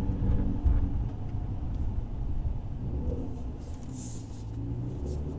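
2019 Mercedes-AMG C43's twin-turbo V6 with AMG performance exhaust rumbling at low speed, heard from inside the cabin with the window up, with one short low thump less than a second in.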